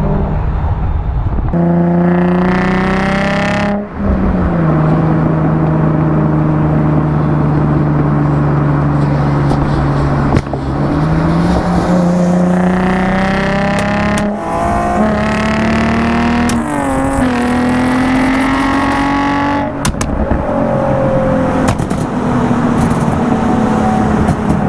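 V6 sports car with an aftermarket performance exhaust running hard. The engine note climbs and holds steady for stretches, then drops sharply several times, as with gear shifts.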